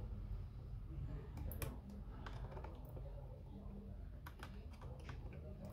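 Scattered small clicks and taps of tools and parts being handled while an Apple Time Capsule is taken apart, over a steady low hum.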